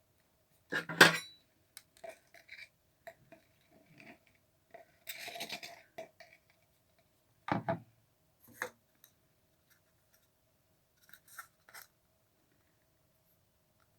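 Tabletop handling of a butter knife and a peanut butter jar: scattered knocks and light clicks, a loud knock about a second in, a rasping scrape around five seconds, and another knock a couple of seconds later.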